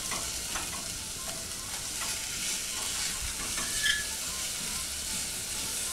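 Diced potatoes and garlic sizzling steadily in oil in a stainless steel saucepan while being stirred with a silicone spatula, with a few light scrapes against the pan.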